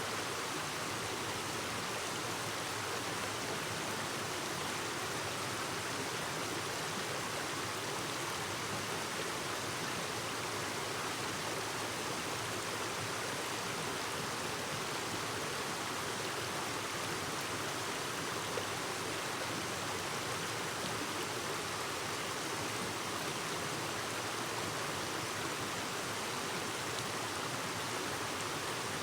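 Clear mountain stream babbling over rocks, a steady, unbroken rush of water.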